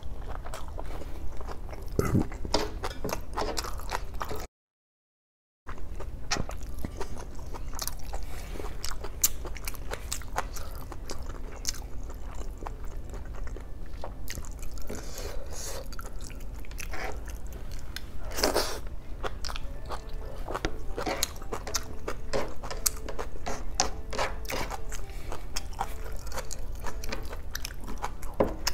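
Close-miked eating sounds: chewing and biting with wet smacks and clicks as rice, water spinach (kangkong) and boiled pork hock from sinigang na pata are eaten by hand. About four and a half seconds in there is roughly a second of dead silence.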